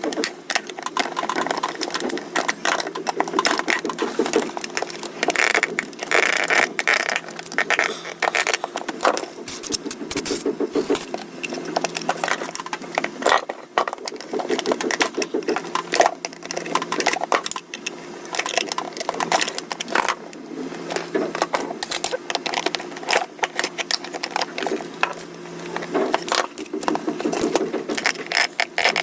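Irregular clicking, clattering and scraping of small hard parts being handled and worked on, with many quick knocks throughout.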